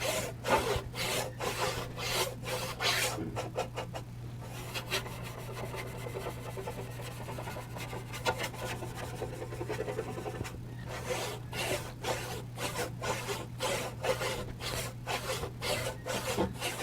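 Paintbrush scrubbing charcoal over charcoal paper in back-and-forth strokes, about two strokes a second, lighter and quicker through the middle stretch, blending in a dark background.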